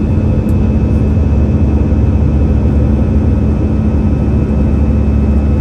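Airbus A321-200 jet engines running steadily, heard from inside the cabin as a loud, even rumble with a constant hum.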